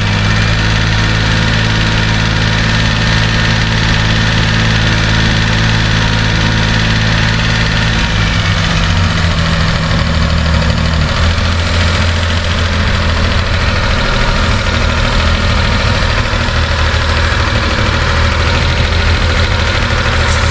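Suzuki Carry DC51T kei truck's three-cylinder engine idling, its note shifting partway through: an unstable idle that the owner puts down to a torn, holed hose leaking vacuum.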